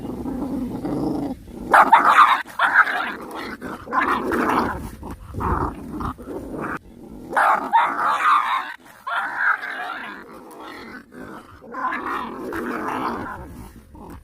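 Puppies growling and snarling at each other in repeated bursts, with short yips and barks, angry while fighting over food.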